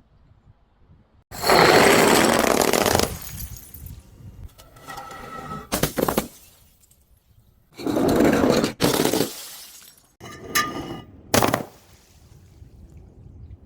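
Glass being smashed and crushed in several separate crashes: a long crunching crash about a second in, smaller crunches with a sharp crack around the middle, another crash a couple of seconds later, then a few sharp knocks with brief glassy ringing.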